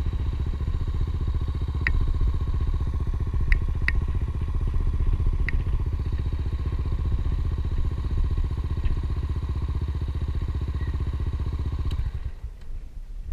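Honda XR250 Tornado motorcycle's single-cylinder four-stroke engine idling steadily, with a few light clicks, then cutting out about twelve seconds in.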